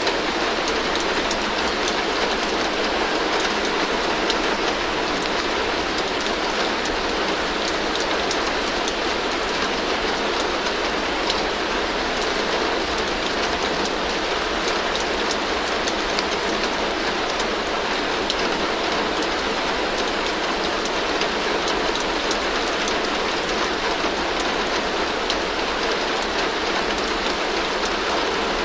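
Heavy rain falling steadily on a tin roof: an even, unbroken hiss scattered with sharp little ticks of drops striking the metal.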